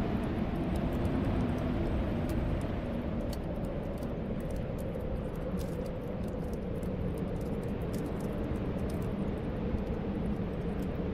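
Steady snowstorm wind blowing and whistling, with faint scattered crackles of a wood fire.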